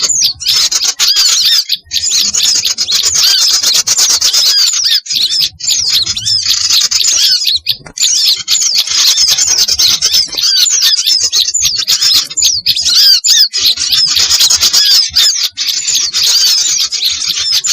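Dense, continuous chorus of many small birds' agitated chattering and squawking calls, overlapping one another: a bird-lure mix of noisy small-bird alarm calls, such as excited bulbuls. It breaks off only for an instant about two seconds in and again near eight seconds in.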